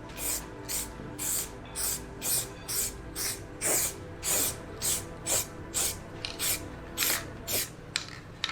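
Spray paint hissing from an aerosol can in short, quick bursts, about two a second, as a repaired motorcycle fairing panel is painted.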